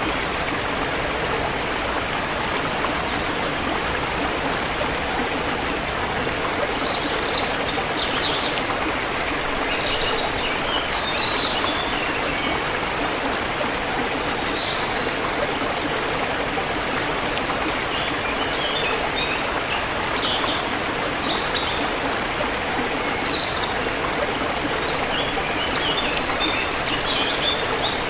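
A forest river flowing steadily, with small birds chirping over it in short, scattered calls.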